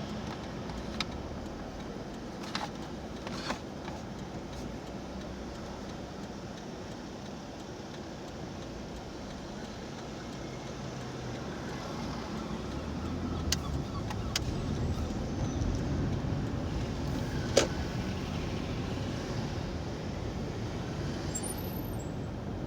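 Car cabin noise while driving: steady engine and tyre rumble, with a few short sharp clicks, the sharpest late on.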